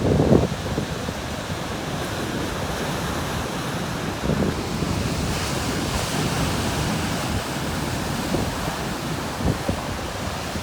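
Big ocean waves breaking and churning on a rocky shore at high tide, a steady wash of surf that swells about five seconds in. Wind gusts rumble on the microphone, hardest right at the start.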